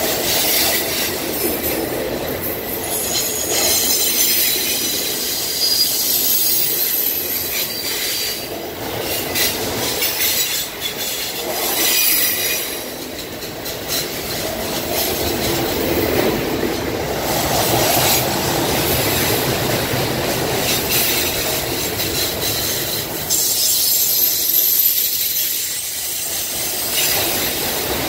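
A freight train of autorack cars rolling past close by, its steel wheels rumbling on the rails. There are clicks over the rail joints and high-pitched wheel squeal that comes and goes, most plainly twice.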